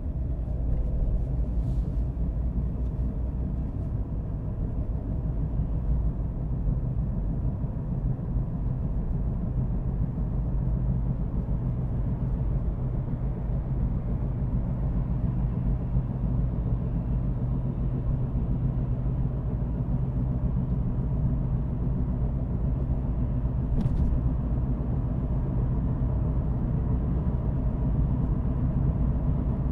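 Car driving at a steady pace, with a continuous low rumble of engine and road noise.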